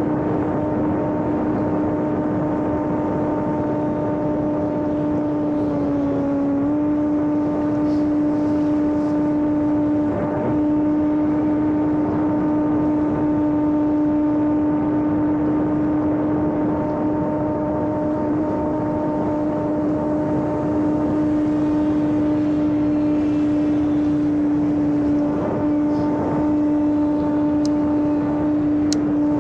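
Small electric RC airplane's motor and propeller running steadily in flight, a constant hum with rushing air noise. The pitch dips slightly about six seconds in, then holds.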